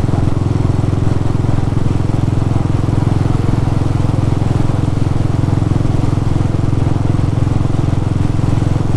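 Motorcycle engine running steadily while riding at a constant speed, with a steady rush of road and wind noise.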